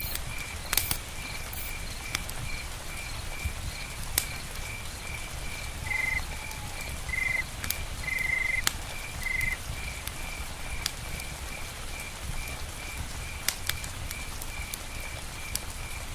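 Crickets chirping steadily, about three pulses a second, over a low rumbling bed of campfire and rain noise with scattered sharp clicks. About halfway through, another animal gives four short calls.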